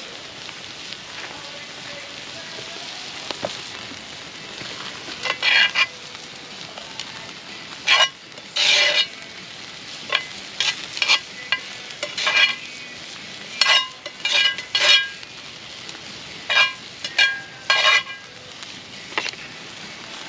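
Food sizzling in a hot pan, with a metal utensil scraping and clanking against the pan in a string of sharp, ringing strikes through the middle of the stretch.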